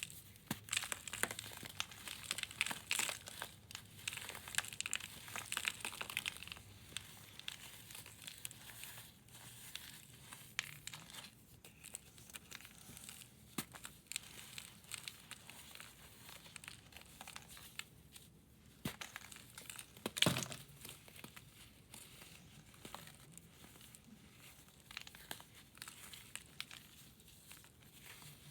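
Pressed powder blocks crumbling and crunching: a dense run of fine crackles for the first several seconds, then sparser crunches, with one louder crunch about twenty seconds in.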